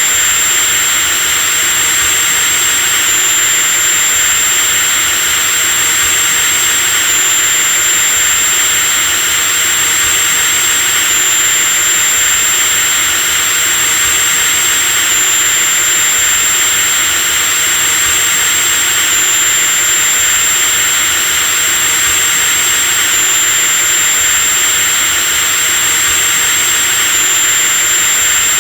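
Electric drill running continuously at steady speed: a loud, even motor noise with a thin high whine. The whine jumps slightly about every four seconds.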